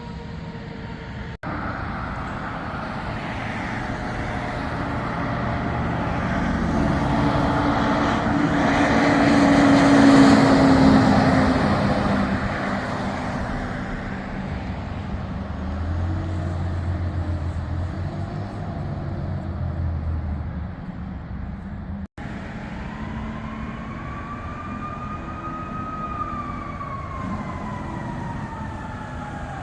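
Fire trucks pulling away: a siren winds down at the start, then a heavy fire engine passes, loudest about ten seconds in. Near the end another siren wails, rising and then falling slowly.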